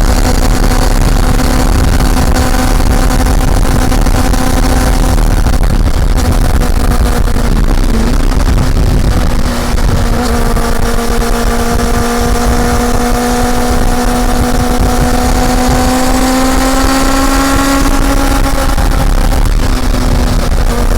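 Honda CB400 Super Four's inline-four engine running under way at a steady pitch. It dips briefly about eight seconds in, then the pitch climbs slowly for several seconds before easing off slightly near the end.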